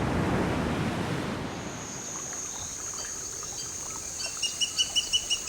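Surf washing on a beach, fading out after about a second and a half. A steady high thin whine then sets in, and near the end a rapid run of high chirps comes at about five a second.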